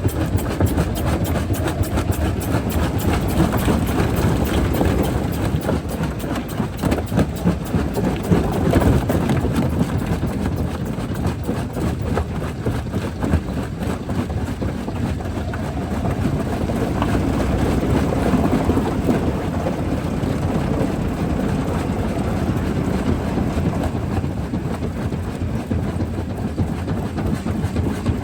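Jaw crusher running and breaking rock: a steady low rumble with dense, continuous clattering of stone.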